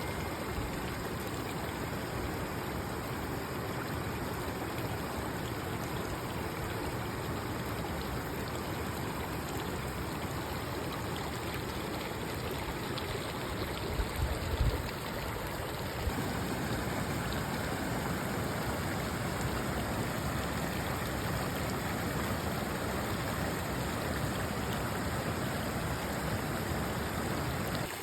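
Steady rushing of flowing water, with a brief low thump about halfway through.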